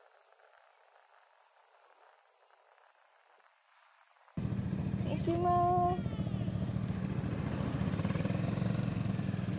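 A faint steady high hiss, then about four and a half seconds in a sudden change to a Honda GB350's air-cooled single-cylinder engine idling steadily. About a second after it comes in, a short pitched tone lasting under a second sounds over the idle and is the loudest moment.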